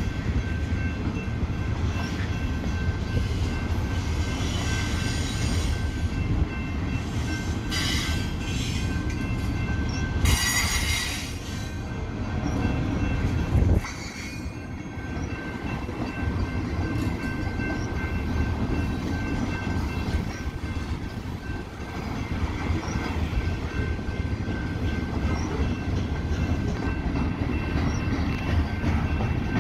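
BNSF freight train's centerbeam flatcars, loaded with lumber, rolling steadily past: a continuous low rumble of wheels on rail, with brief high-pitched wheel squeals about 8 seconds in and again around 10 to 11 seconds in.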